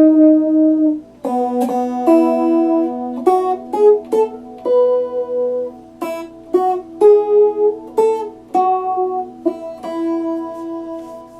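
Epiphone Les Paul Special II electric guitar picking single notes and chords in a slow melody, the last chord ringing out and fading near the end.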